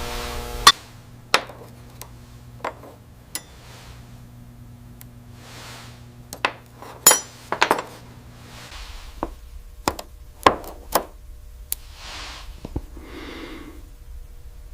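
Scattered sharp metal clinks and taps, about a dozen, as silverware and tools are handled and set down, with soft rubbing sounds in between.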